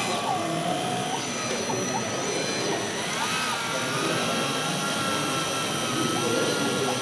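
Steady whirring din with a thin, high whine that wavers up and down in pitch, as of small electric motors in radio-controlled model vehicles.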